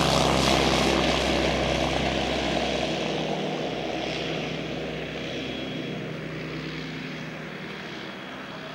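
Propeller airplane's engine running, fading steadily as the aircraft flies off after a low pass.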